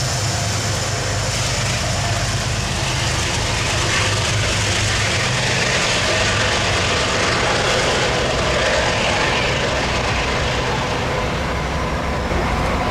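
A train running close by: a steady low engine hum under a loud, even rumble and hiss of wheels on rail.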